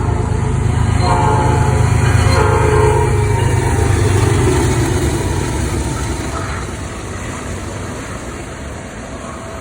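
CN freight train's diesel locomotives passing with the air horn sounding over a heavy engine rumble. The horn's pitch drops as it goes by, then the rumble fades into the steady rattle of the passing cars.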